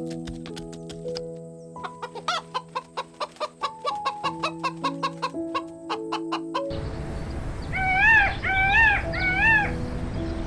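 Background music with sustained notes and a quick run of short notes, then farm poultry calling: three short calls that rise and fall in pitch, over outdoor background noise.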